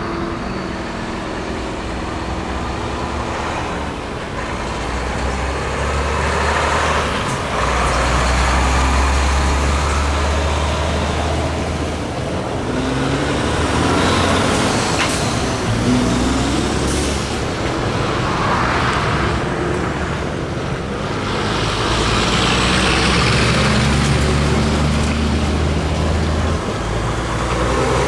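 Heavy trucks driving past one after another, their diesel engines rumbling and swelling as each one goes by, with a few short hisses of air.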